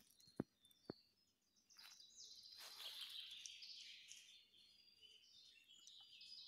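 Faint birdsong: several small birds singing short, high notes and trills, beginning about two seconds in. Two sharp clicks sound within the first second.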